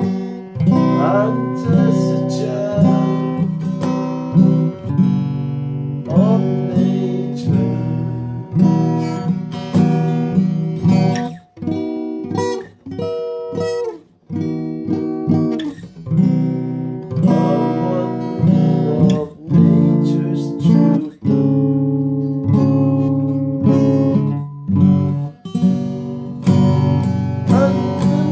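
Acoustic guitar music: chords strummed in a steady rhythm, the chord changing every second or so.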